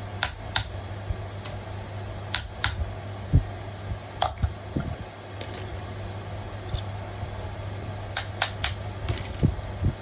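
Irregular sharp clicks and taps of small metal parts and tools being handled, over a steady low hum.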